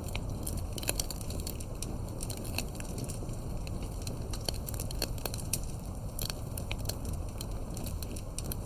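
Wood fire burning steadily, with frequent irregular sharp crackles and pops over a low rumble of the flames.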